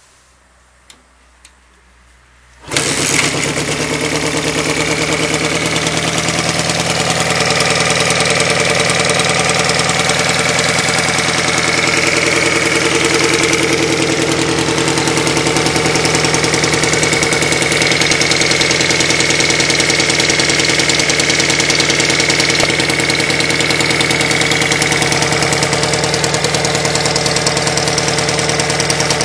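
Honda CM125T's air-cooled parallel-twin engine being started: two light clicks, then the engine catches suddenly about three seconds in and runs steadily at idle.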